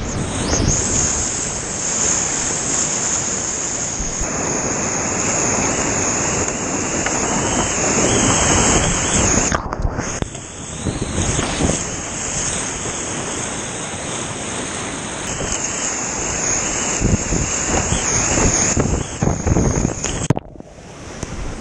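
Whitewater rushing loudly and steadily around a kayak on a steep river, a continuous hiss of churning water. The sound drops sharply for a moment twice, about ten seconds in and again near the end.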